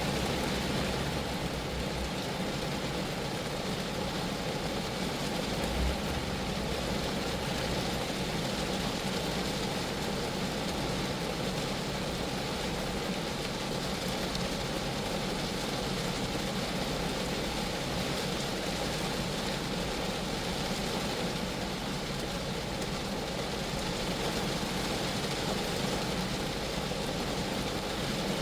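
Steady rain falling on a Geo Metro, a dense, even hiss of drops hitting the car. A brief low thump comes about six seconds in.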